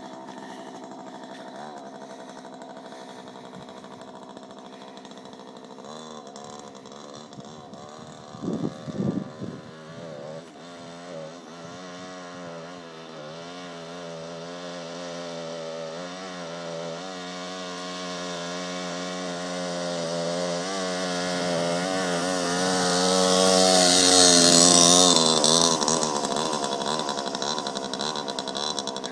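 Small engine of a mini chopper bike buzzing as it is ridden, its pitch rising and falling with the throttle. There are a few short loud bursts about nine seconds in. Later it grows steadily louder, peaks a few seconds before the end, then fades as it passes.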